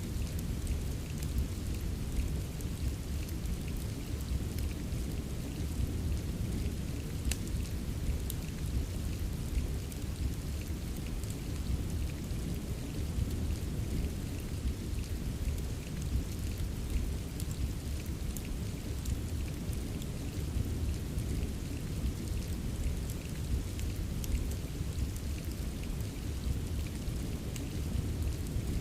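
Steady soft rain mixed with a crackling fireplace: an even rushing hiss with a deep low rumble underneath and scattered faint small crackles throughout.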